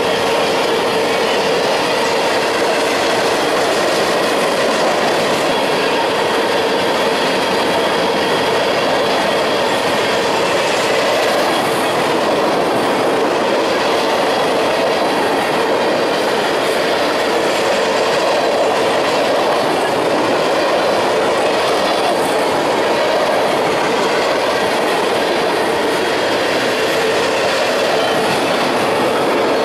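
Freight train cars (covered hoppers, gondolas, tank cars and boxcars) rolling past: steady, loud noise of steel wheels on rail, with a steady tone running through it.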